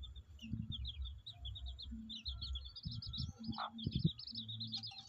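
Domestic chicks peeping: rapid runs of short, high chirps repeated throughout, over a low rumble.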